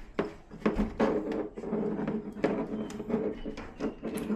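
Clicks and knocks of plastic TV housing parts being handled and unclipped, with a low steady drone underneath.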